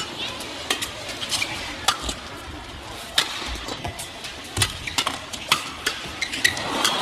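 Badminton rally: rackets striking the shuttlecock back and forth in sharp, irregular cracks, about one every second or less, with a few short squeaks of shoes on the court.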